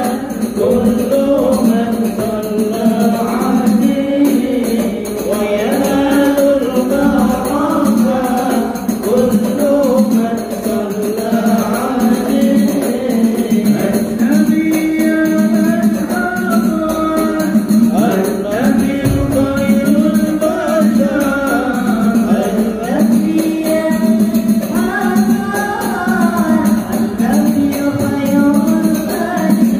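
Sholawat, an Arabic devotional song in praise of the Prophet, sung in a flowing melody over light, steady percussion.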